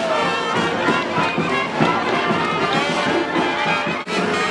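Brass band playing, with trumpets and trombones. The sound drops out for an instant near the end.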